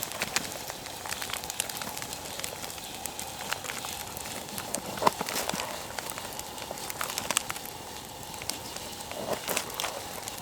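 Dry twigs and small branches crackling and snapping irregularly, with a few louder sharp cracks.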